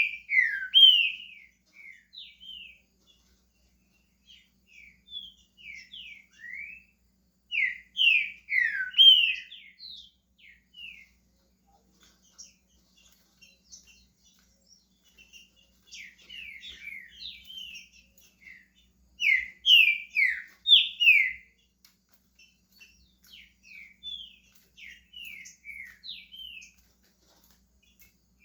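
Green-winged saltator (trinca-ferro) starting to sing: short phrases of clear, sliding whistled notes with gaps between them. Louder phrases come at the start, about eight seconds in and about twenty seconds in, with softer scattered notes in between.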